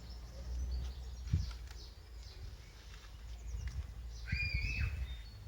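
Birds chirping in the background, with one clearer, longer call near the end, over a steady low rumble on the microphone and a soft thump about a second in.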